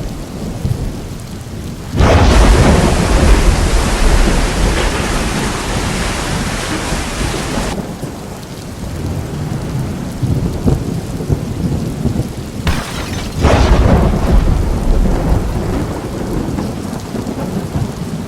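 Thunderstorm: heavy rain with deep rumbling thunder. The storm noise jumps abruptly between quieter and much louder stretches several times, as between spliced clips.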